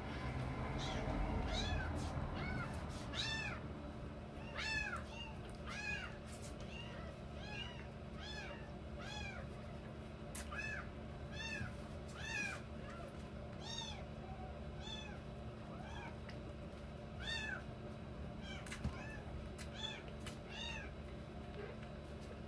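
Young kittens mewing over and over in high-pitched cries that rise and fall in pitch, about one or two a second. A low rumbling noise runs through the first few seconds.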